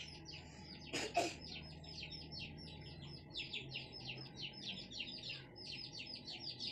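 Birds chirping in a rapid, even string of short high calls, with one louder sound about a second in.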